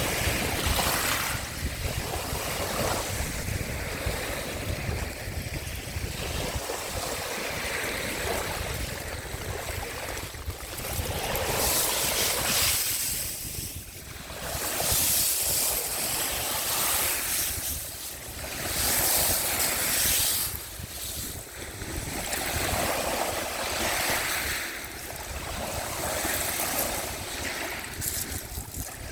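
Sea waves washing onto the shore, swelling and fading every few seconds, with a low wind rumble on the microphone.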